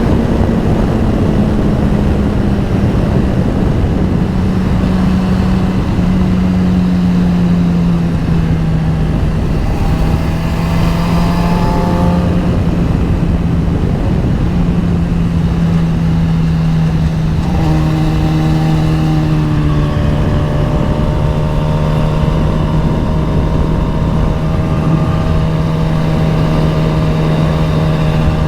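Sport motorcycle engine running at a steady cruise with heavy wind rumble on the microphone; its note eases slowly down over the first several seconds, then holds even.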